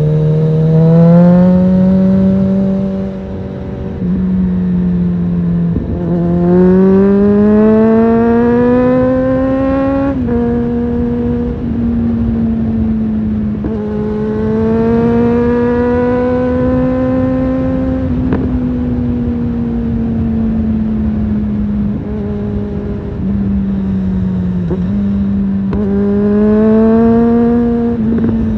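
2007 Suzuki GSF650 Bandit's inline-four engine, through an aftermarket Storm exhaust, pulling hard in four runs. The pitch rises through each run and drops back between them.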